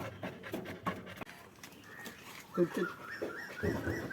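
A Labrador retriever panting hard after a bout of fussing, with a brief whimper about two and a half seconds in.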